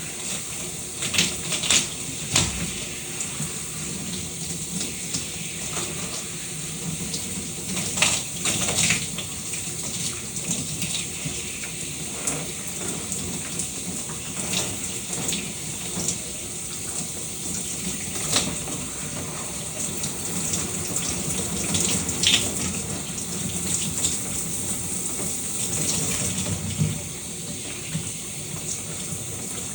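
Shower running: a steady spray of water, with brief sharper splashes every few seconds.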